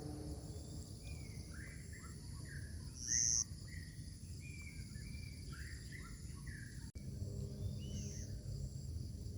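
Outdoor morning ambience: a bird sings a rapid series of short chirping notes over a steady high-pitched drone of insects. A brief loud high buzz cuts in about three seconds in.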